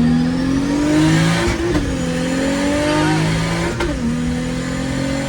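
Big-turbo Toyota Supra accelerating hard from a launch, the engine note climbing through the revs, dropping suddenly at an upshift about a second and a half in and again near four seconds, then climbing once more.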